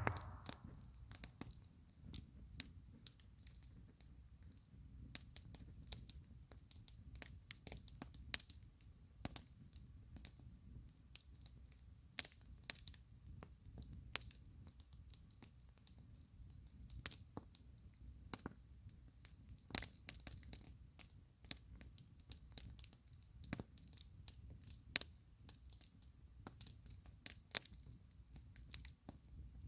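Wood campfire crackling, with sharp, irregular pops and snaps over a low steady rumble; one louder pop right at the start.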